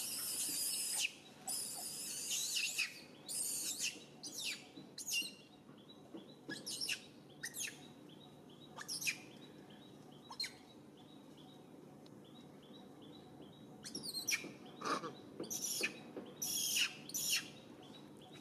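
Birds chirping: repeated short, sharp calls that sweep quickly downward in pitch, in dense runs at the start and near the end with scattered single calls between.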